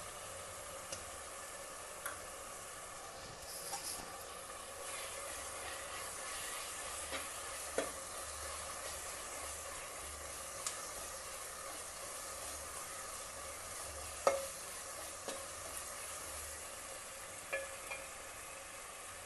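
Onions and red chili paste frying in a pan with a steady sizzle, while a metal spoon stirs them and clicks against the pan a few times.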